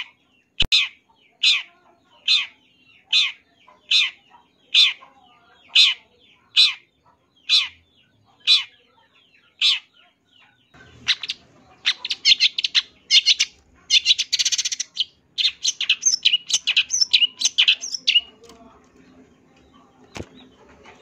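Long-tailed shrike (cendet) giving a run of harsh, evenly spaced calls, a little more than one a second. About eleven seconds in it breaks into fast, dense chattering song, which thins out near the end.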